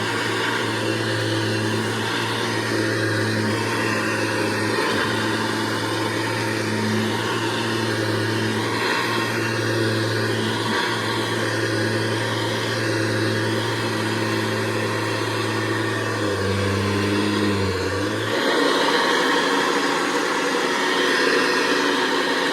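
Hoover Convertible upright vacuum cleaner running, a steady low motor hum over the rush of air. About sixteen seconds in the hum drops in pitch, and a couple of seconds later it gives way to a slightly louder, airier rush.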